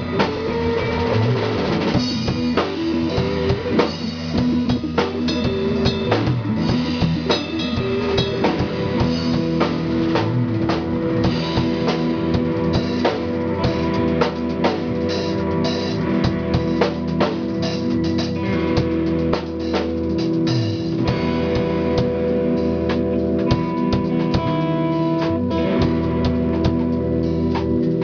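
Live band playing at a sound check: a drum kit with bass drum keeping a steady beat under guitar and bass.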